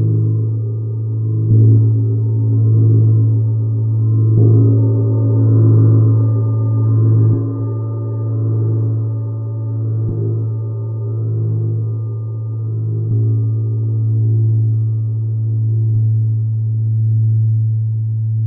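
A low ringing metal tone from a sound-bath instrument, held and wavering in slow pulses. Soft mallet strikes renew it about every three seconds.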